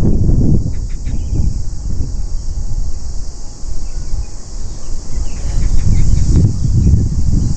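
Wind buffeting the microphone in gusts, with a steady high-pitched insect buzz above it and a few faint bird chirps.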